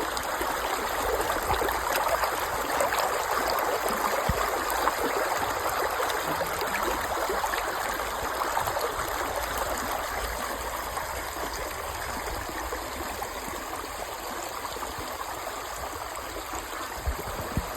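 Creek water flowing steadily, a continuous rushing trickle that eases slightly over time, with a brief knock near the end.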